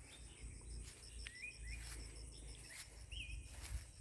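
Faint natural ambience: an insect's high, evenly pulsing trill, with two short chirping bird calls, one about a second and a half in and another about three seconds in.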